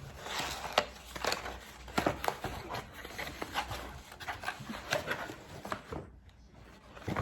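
Cardboard box being handled and pried open by hand: irregular scrapes, taps and rustles of cardboard, dropping away briefly near the end.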